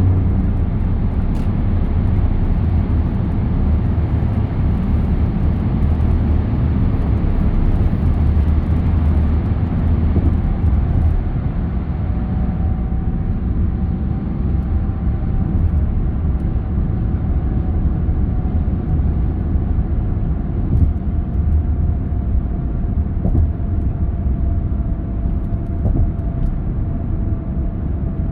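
A car driving along a road: steady low rumble of engine and tyres. About halfway through a faint whine comes in and slowly drops in pitch.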